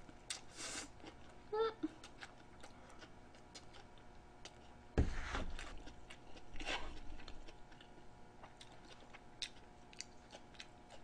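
Faint chewing and slurping close to the microphone as a person eats noodles from a bowl, with small mouth clicks. A brief louder rush of noise comes about five seconds in.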